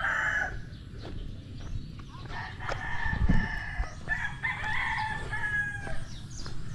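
Rooster crowing: a crow tails off just at the start, then one long crow runs from about two seconds in to near the end. A dull low thump comes near the middle.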